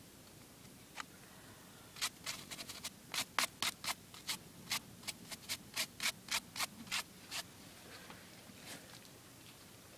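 Hoof pick scraping dirt out of a horse's hoof in about twenty quick strokes, starting about two seconds in and stopping after five seconds or so.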